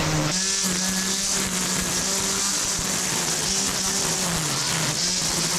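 Electric string trimmer with its motor in the head, running with a steady whine over the hiss of the spinning line. Its pitch steps up just after the start and wavers briefly about four to five seconds in as it works through weeds.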